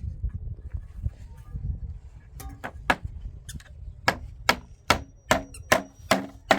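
A hand tool striking wood in quick repeated blows, about eleven strokes at two to three a second starting a couple of seconds in, each with a short ring, as in building work.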